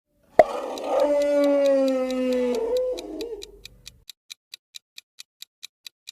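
A canine howling: one long call that drifts slightly down in pitch after a sharp start, then fades. After it, a clock ticks about four times a second as a countdown.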